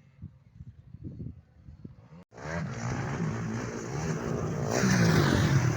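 Faint low thumps, then from a sudden cut about two seconds in a motocross motorcycle engine runs loudly and revs, its pitch rising and falling.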